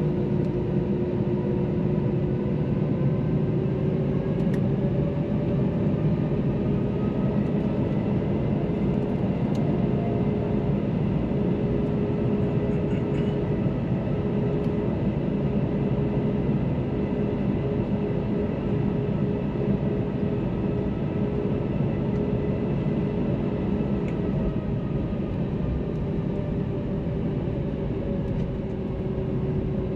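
Airbus A321-231's IAE V2500 turbofan engines and airflow heard inside the cabin: a steady, loud rumble with a steady engine hum that drifts slightly in pitch.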